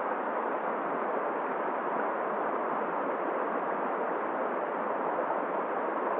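Steady rushing hiss of a cold river flowing with wind blowing over it, even throughout and without separate sounds.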